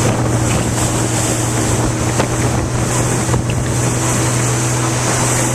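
Motorboat engine running steadily with the boat under way, with a constant low hum and wind buffeting the microphone.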